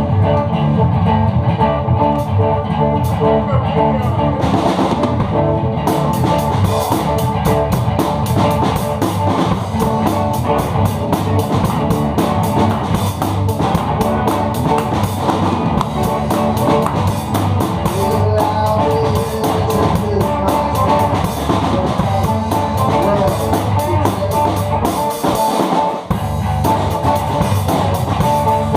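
Amateur rock band jamming, electric guitar over a drum kit, in a poor-quality recording. Cymbals come in about six seconds in.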